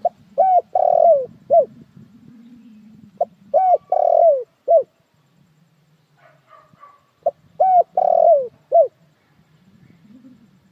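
Spotted dove cooing: three phrases about four seconds apart, each a few short coos around a longer, louder middle note.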